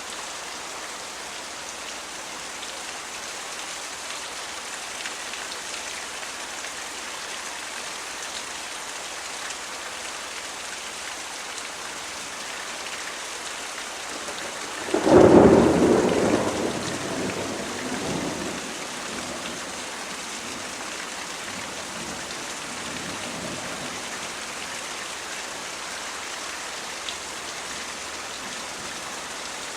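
Steady rain falling throughout, with one sudden clap of thunder about halfway through that rumbles away over a few seconds.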